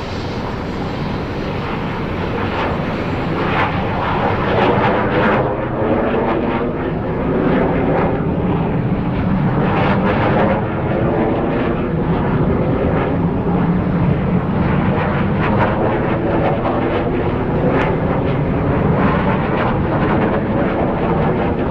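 Kawasaki T-4 jet trainers taking off, their twin turbofan engines at full power. The jet noise is loud and continuous, building over the first few seconds and then holding, with a sweeping, shifting quality as the jets move.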